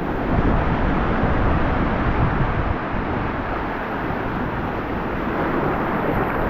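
Rough sea surf: waves breaking and washing in a steady rush, swelling for the first few seconds, with wind buffeting the microphone.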